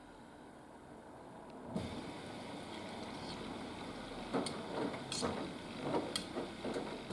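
Haier HW120 front-loading washing machine's drum starting to turn a little under two seconds in, with laundry tumbling in the wet drum and giving irregular knocks from about four seconds on.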